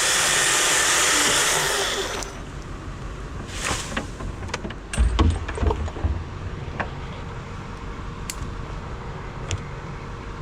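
Chainsaw cutting through hardwood for about two seconds, then cutting off. Scattered knocks follow, with one heavy, low thud about five seconds in.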